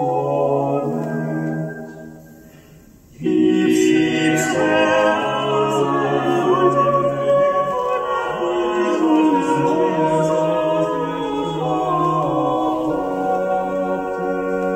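Choral vocal music played through Bose 301V speakers driven by a Yamaha RX-V496RDS receiver. The music fades away about two seconds in, and a new passage of singing starts abruptly about a second later.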